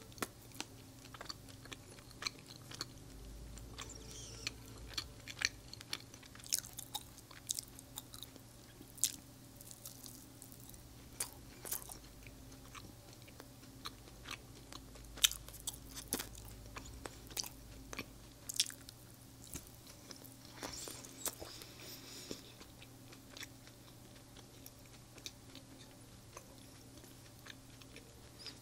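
A person chewing and biting Indian sweets close to the microphone, with many irregular sharp mouth clicks and smacks.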